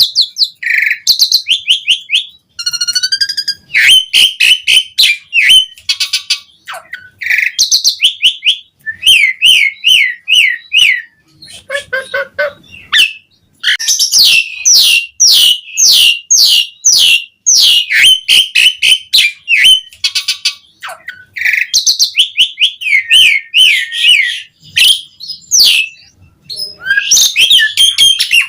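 Pied starling (jalak suren) singing in full voice: fast runs of chirps, whistles and varied mimicked notes, broken by short pauses.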